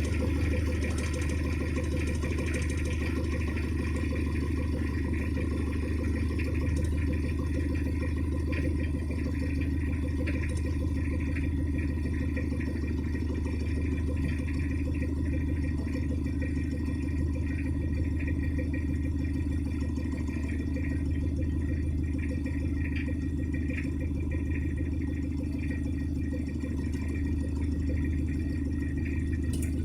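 Toyota Corolla's 1C 1.8-litre four-cylinder diesel engine idling steadily after a cold start.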